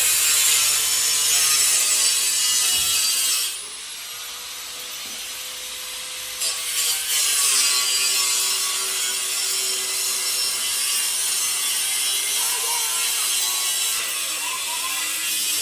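Power tool cutting into the exhaust during a muffler delete, with a harsh, hissing sawing noise. It runs for about three and a half seconds, eases off, then cuts again from about six seconds in until near the end.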